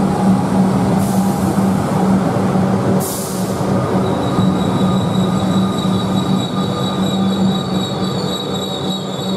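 Comeng electric suburban train running along an underground station platform: a steady rumble of wheels and motors with a constant low hum, and two short hisses of air in the first few seconds. From about four seconds in, high wheel squeal sounds over the rumble.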